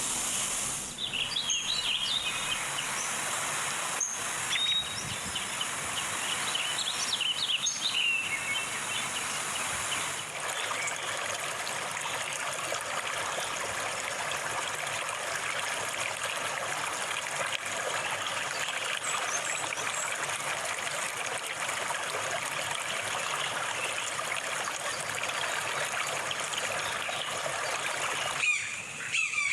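Steady trickling of running water, with short bird chirps in the first several seconds.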